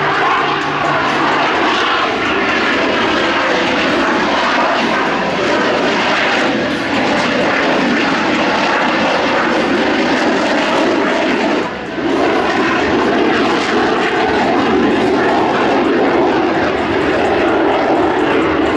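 Loud, steady engine noise from a display aircraft in flight, with slowly shifting pitch bands as it passes. It briefly drops about twelve seconds in.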